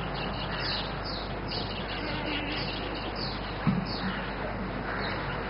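A small bird chirping repeatedly in a series of short, high, falling chirps, over a steady hum and hiss. A single low thump comes about two-thirds of the way through.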